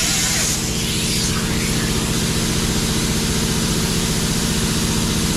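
A motor or engine running steadily, a low even hum with fast regular pulsing and a hiss in the first half-second.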